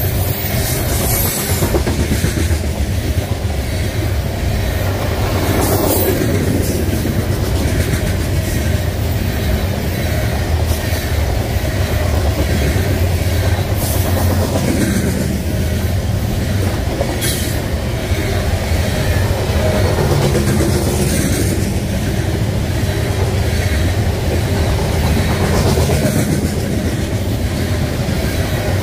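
Freight train of covered hopper cars rolling past: a steady rumble of steel wheels on the rails, with rhythmic clickety-clack as each car's wheel trucks pass.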